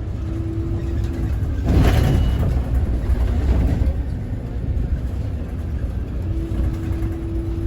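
Scania Citywide city bus running with a steady low rumble and a faint steady hum, and a short burst of hissing about two seconds in.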